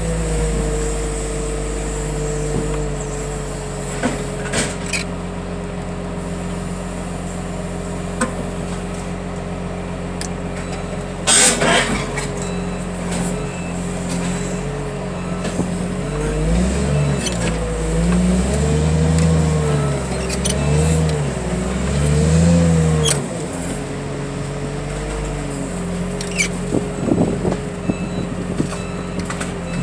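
Engine of a heavy loading machine running steadily, revving up and down four or five times in the middle as it lifts a heavy bundle of crushed cars. Metal clanks and knocks come through, the loudest about eleven seconds in and a cluster near the end.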